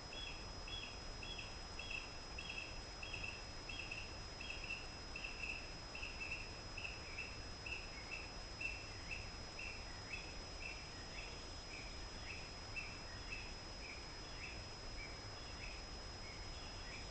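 A small songbird calling over and over in short high notes, about two or three a second. The later notes slur downward. A steady thin high-pitched tone runs underneath.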